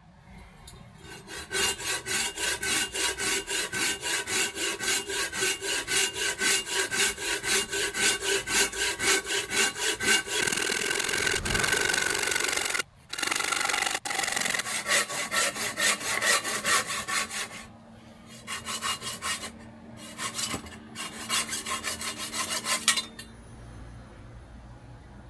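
Hand saw cutting through a Chinese hackberry branch in fast, even strokes, with short breaks midway and the cut finishing about 23 seconds in.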